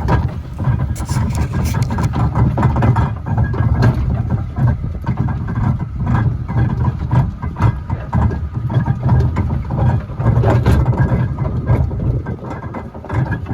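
An engine running steadily: a low rumble with irregular clicks and knocks over it.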